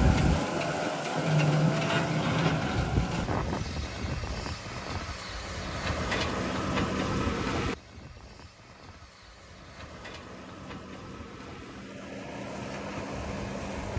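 JCB 4220 Fastrac tractor running while it chases bales, its engine loudest over the first few seconds and then fading. The sound drops abruptly about eight seconds in, then slowly grows louder again toward the end.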